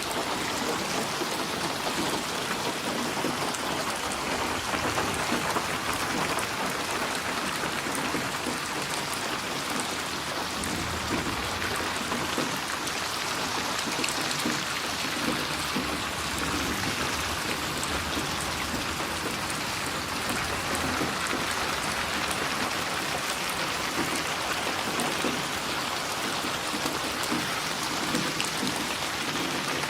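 Steady rain falling, with a close patter of drops on a surface.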